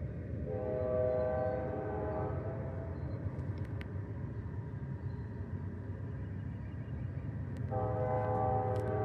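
Train air horn sounding two long blasts, each a steady chord of several notes, one about half a second in and another starting near the end, over a steady low rumble.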